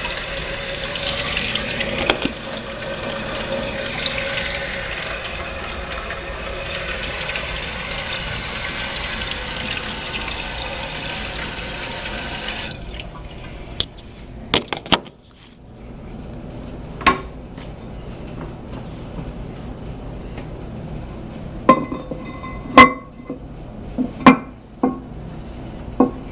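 Toilet tank refilling after a flush, the Toto fill valve hissing steadily as water runs in, then shutting off abruptly about 13 seconds in. Several sharp knocks and clicks follow in the quiet.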